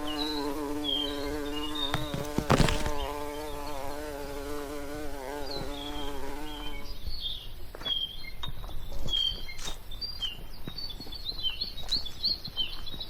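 A flying insect buzzing close by, its drone wavering in pitch, until it stops about seven seconds in. Small birds chirp in short high calls throughout. A brief loud crackle comes about two and a half seconds in, and scattered light clicks follow once the buzzing ends.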